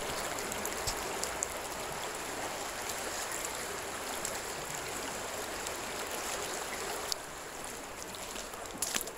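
Creek water flowing steadily, with a few faint clicks.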